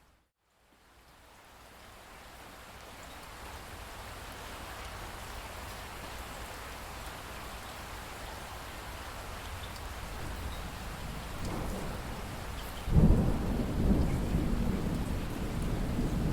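Steady rain that fades in after a brief break and holds as an even hiss, then a sudden loud thunderclap near the end that rumbles on.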